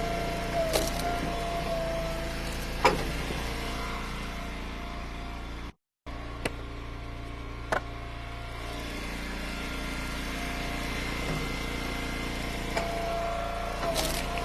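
Gas engine of an Eastonmade wood splitter running steadily at idle, with a few sharp knocks now and then. The sound cuts out completely for a moment about six seconds in.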